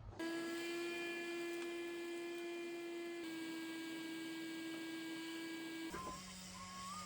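Electric motor of a handheld power tool running at a steady whine for about six seconds, dipping slightly in pitch about halfway through, then stopping.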